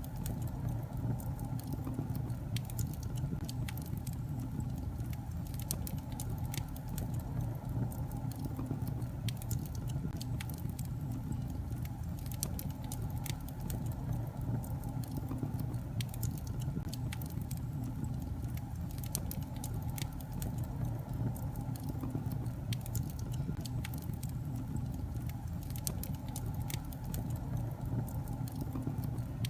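Wood fire burning in a fireplace: a steady low rumble of the flames with frequent small irregular crackles and pops from the logs.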